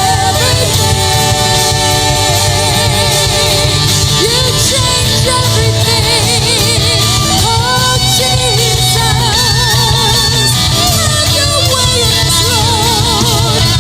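Worship band playing a song, with a singer's voice held and wavering over guitar and a steady rhythm section.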